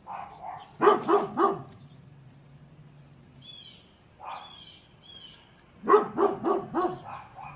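A dog barking in two quick bouts: three or four sharp barks about a second in, then five or six more near the end.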